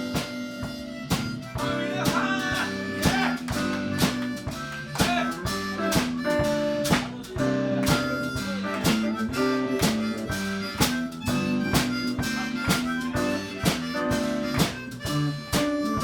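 Live blues band playing an instrumental break: a harmonica leads with bending notes over guitar and a steady drum beat.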